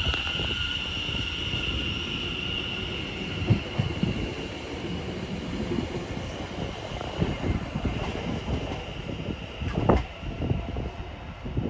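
A train running through the station, with a low rumble and irregular wheel knocks. A high, steady squeal fades away over the first few seconds.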